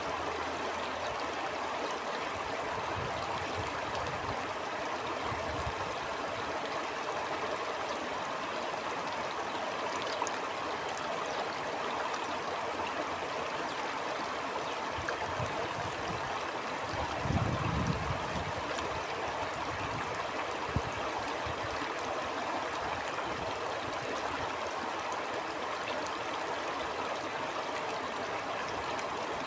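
Stream flowing steadily over rocks, with an even rushing and gurgling, and a few low rumbles, the strongest about two-thirds of the way through.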